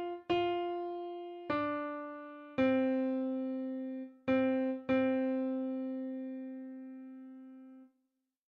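Piano playing the alto line of a hymn one note at a time, slowly: five struck notes, the last held long and dying away before it cuts off near the end, closing the final phrase.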